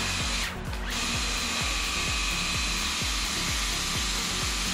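Worx Hydroshot cordless power cleaner spraying: a steady electric pump whine with the hiss of water, which cuts out briefly about half a second in and then runs on. Background music with a steady beat underneath.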